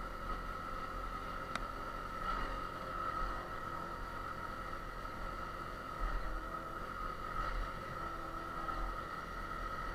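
Yamaha TTR 250's single-cylinder four-stroke engine running at steady revs while riding, with an uneven low rumble underneath. A single sharp click comes about a second and a half in.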